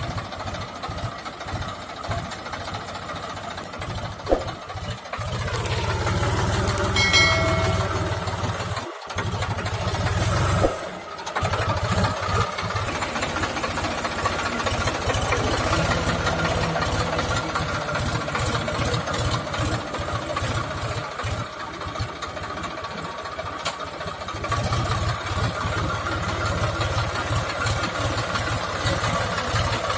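Tractor diesel engine running, its note rising and falling, with a short pitched tone about seven seconds in. The sound cuts out briefly twice, near nine and eleven seconds.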